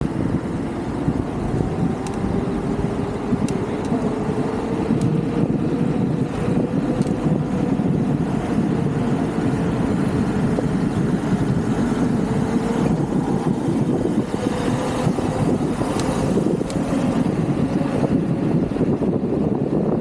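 An e-bike with a Bafang BBSHD mid-drive motor on the move: steady road and wind noise with a faint motor whine that slowly rises in pitch.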